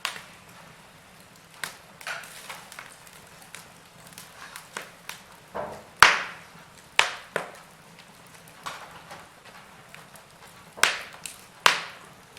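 Wood fire crackling in a fireplace: sharp, irregular pops and snaps from the burning logs, the loudest about halfway through and two more strong ones near the end, over a faint low hiss.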